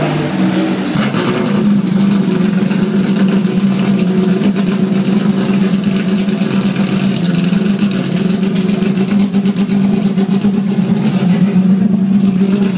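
A race car engine running at a steady pitch, with a fast crackle over it from about a second and a half in until near the end.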